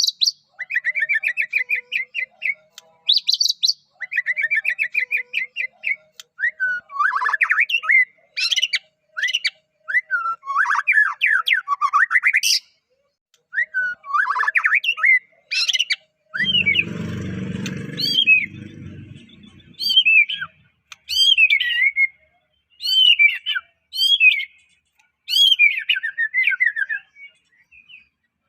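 White-rumped shama (Medan-type murai batu) singing a varied song of quick trills, rising and falling whistles and sharp high notes, phrase after phrase with short pauses between. About halfway through, a rough, low, noisy sound lasts two or three seconds.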